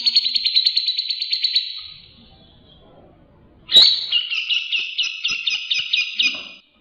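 Grey-cheeked bulbul (cucak jenggot) calling in two fast, chattering phrases of rapid repeated notes. The first fades out about two seconds in. The second starts with a sharp note near four seconds and runs at about five notes a second.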